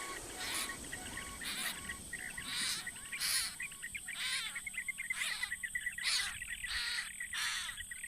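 Birds calling: a run of short, harsh chirping calls that come faster towards the end, about two a second by the close, over a faint steady high trill.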